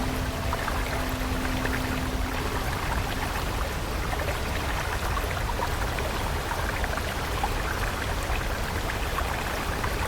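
Stream of water flowing steadily, a continuous rushing trickle. A soft held musical tone fades out about three seconds in.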